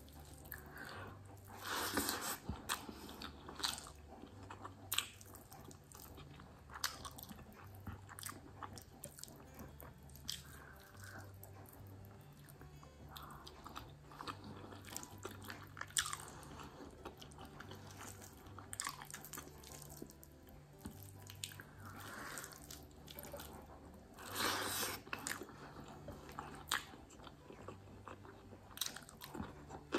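Close-up eating sounds of someone eating rice and curry by hand: chewing with many small crunches and clicks, louder around two seconds in and again near the end.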